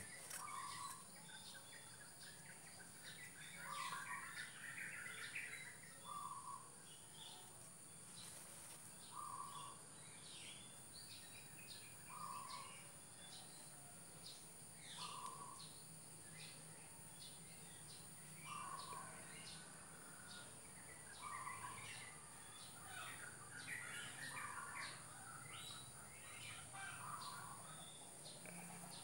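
Birds calling in the background: a short note repeated about every three seconds, with scattered higher chirps between.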